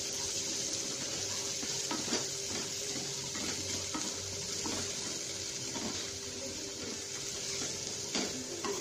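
Potatoes and green peas sizzling in oil in a nonstick frying pan, stirred with a wooden spatula that scrapes and knocks against the pan every second or so.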